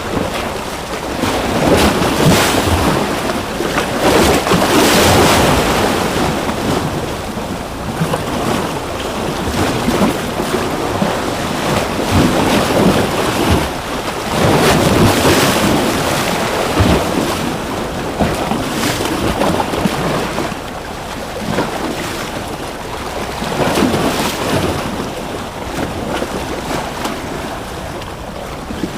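Ocean waves breaking and washing in surf, a steady rush that swells and eases every few seconds, with stronger surges about 2, 5, 15 and 24 seconds in.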